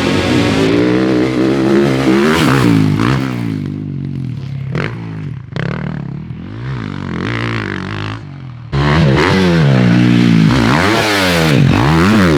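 Dirt bike engine revving up and down repeatedly as it is ridden around a motocross track, the pitch climbing and dropping with each burst of throttle. The sound drops off in the middle, then comes back suddenly louder about nine seconds in.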